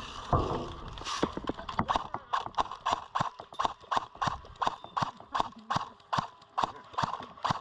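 Footsteps at a jog, about three to four steps a second, each one a sharp knock.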